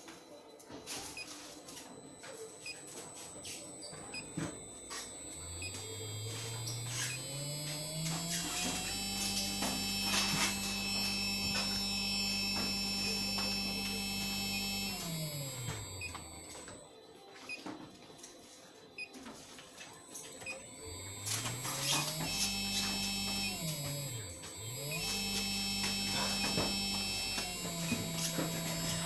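Xinje servo motor on a DS2-20P7-AS drive, whining as it runs. The pitch climbs as it speeds up, holds while the motor runs at steady speed, then falls as it slows to a stop. In a second run it spins up, drops to a stop and immediately spins up again, as in a reversal. A high steady whine from the drive sits above it throughout.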